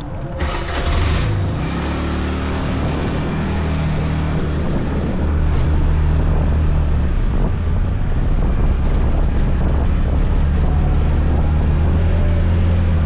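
Scooter engine running as it rides along, picking up speed over the first couple of seconds and then holding a steady hum. Wind buffets the microphone.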